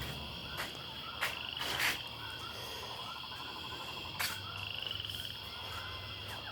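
A steady chorus of small animal calls: a continuous high trill with rows of short, repeated chirps. Several sharp clicks or knocks come through it, about a second apart early on and once more past the middle.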